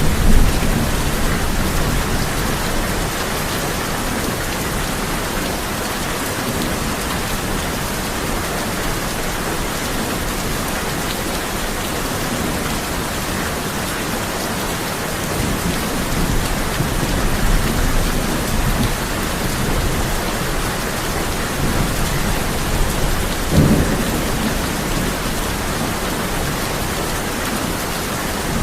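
Steady heavy rain on a tin roof, with low rolls of thunder rumbling several times and a short, sharper one near the end.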